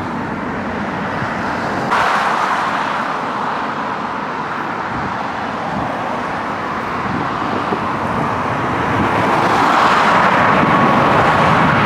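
Jet airliner taking off, a broad rumble that grows louder over the last few seconds as a steady high engine whine comes in.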